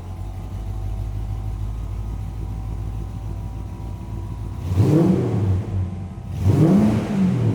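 1959 Chevrolet 3100 Apache pickup's engine idling, then blipped twice about a second and a half apart, each rev climbing and dropping back to idle.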